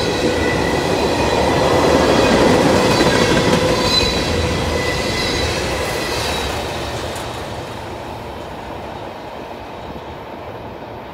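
Freight train's tank cars rolling past on the rails, with a high steady squeal from the wheels over the rumble. The last car goes by about six seconds in and the sound fades as the train moves away.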